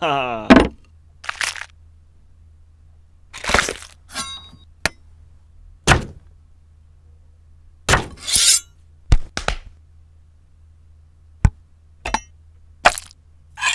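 Cooking sound effects for cleaver and knife work on LEGO pieces: about a dozen sharp chops and cracking knocks, spaced irregularly, some followed by short crunchy rustles. It opens with a short falling pitched sound.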